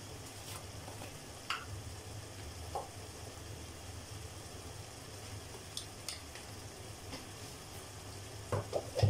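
Sausage and tomato sizzling faintly and steadily in a pot on a gas burner, over a low hum. A few light clicks and taps come through, and there is a quick cluster of knocks near the end.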